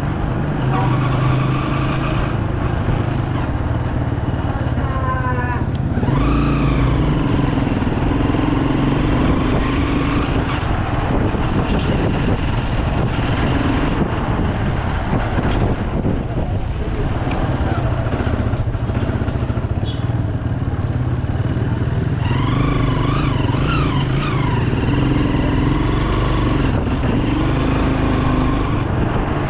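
Bajaj Pulsar 200 motorcycle's single-cylinder engine running under way, its pitch rising and falling as the rider works the throttle. Twice there is a short, higher warbling sound on top of it.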